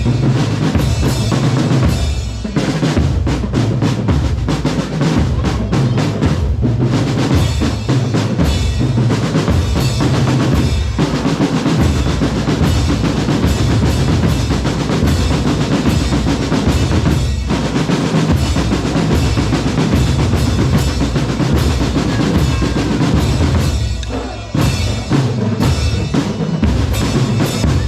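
Drum corps percussion playing loudly: bass drums and snare drums beating a driving rhythm, with short breaks about two seconds in and a few seconds before the end.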